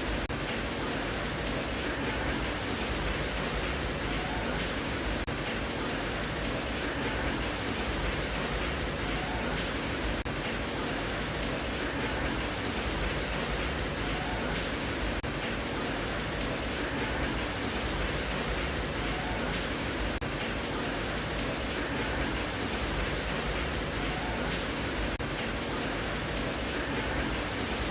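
Steady rain, an even hiss with no breaks or single drops standing out.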